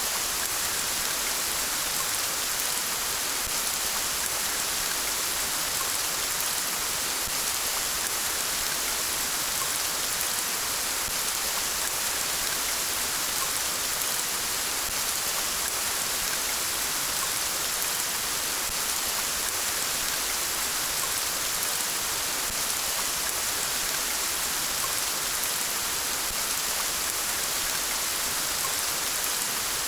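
Steady rain falling, an even hiss with no thunder or other breaks.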